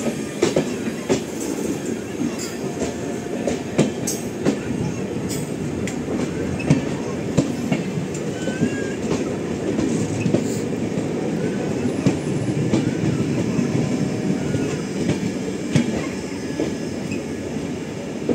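Two passenger trains running side by side on parallel tracks, heard from an open coach window: a steady rumble of steel wheels on rail, with irregular clicks and knocks from the rail joints.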